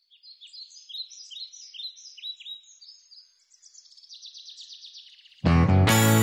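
Birds chirping: a run of short, repeated calls that turns into a rapid trill about four seconds in. About five and a half seconds in, loud guitar-led band music starts suddenly.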